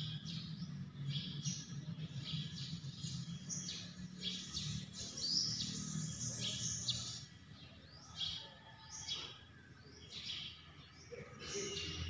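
A small bird chirping over and over in short high calls, the calls thinning out after about seven seconds. It is a bird trapped up in the dome, unable to get down. A low steady hum runs under the first half.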